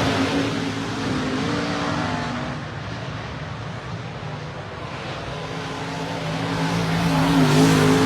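Dirt-track race car engines running at speed on the track: loud at first, fading over the middle few seconds, then building again near the end as cars come back around.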